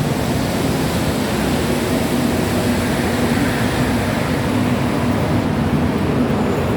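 Steady vehicle rumble with a low hum running under it, like city traffic or an engine close by.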